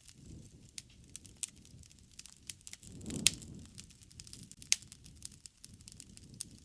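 Wood fire burning, crackling with irregular sharp pops over a low rumble of flames. The loudest pops come a little past three seconds in and near five seconds.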